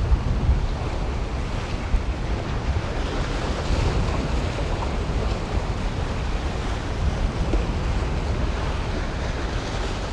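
Wind buffeting the microphone with a low rumble, over the steady wash of surf against the jetty.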